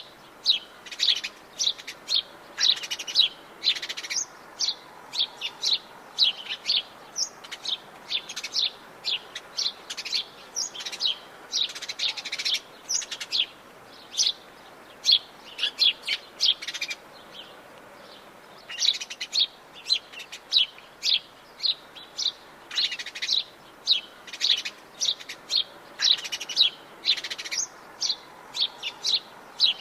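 Forest birds chirping and singing: a dense run of short, high-pitched chirps, several a second, with a brief pause a little past halfway.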